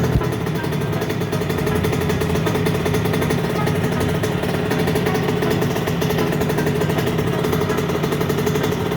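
Yamaha YZ85 dirt bike's single-cylinder two-stroke engine running steadily at an even pitch.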